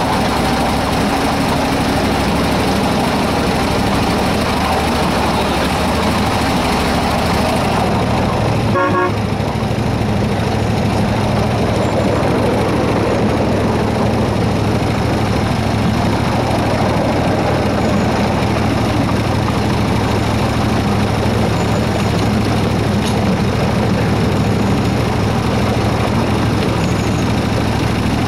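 The engine of a 7¼-inch gauge miniature Baldwin S-12 locomotive running steadily while it hauls along the track. There is a short horn toot about nine seconds in.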